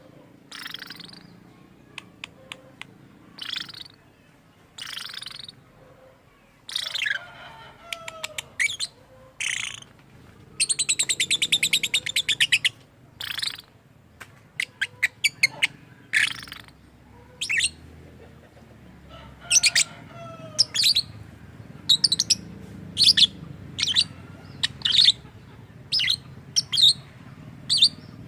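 Lovebird calling: a string of short, high chirps and squeaks, with a longer rapid chattering call near the middle and a few notes that slide downward.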